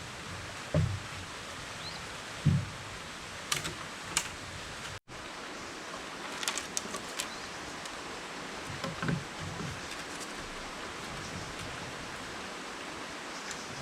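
Steady outdoor background hiss with a few dull thuds and sharp clicks and crackles, like material being handled or worked, and a brief dropout about five seconds in.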